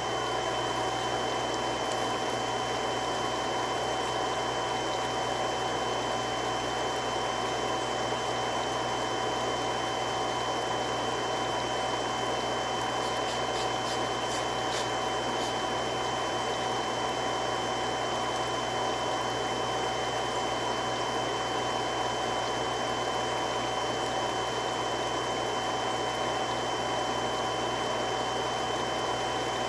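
Three-stage irrigation water pump running steadily: an even rushing hum with a few constant whining tones over it.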